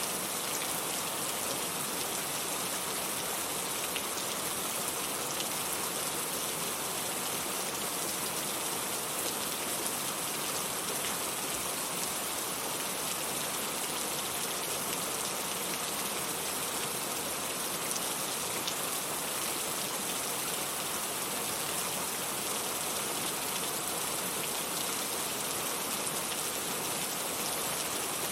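Steady, constant rainfall, a dense even hiss of drops with occasional small distinct drop ticks.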